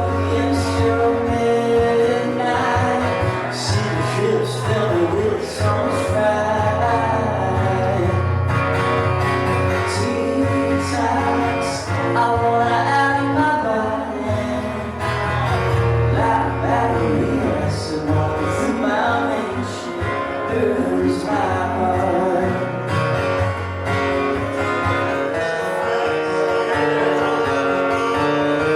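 Live music: an instrumental stretch of a song, with guitar playing a lead line of bending, gliding notes over a steady low bass.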